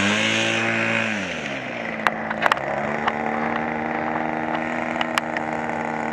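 OS .46 two-stroke glow engine of an RC model airplane running, throttled back from a higher speed to a steady lower idle about a second in, with a few short sharp clicks.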